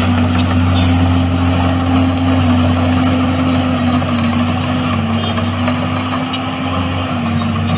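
Heavy diesel engine of earthmoving machinery running steadily at a fairly constant speed, its pitch dipping slightly now and then.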